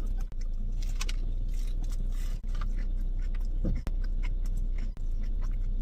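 Close-up chewing and biting of a breaded shrimp taco, with many small sharp clicks from the mouth and food.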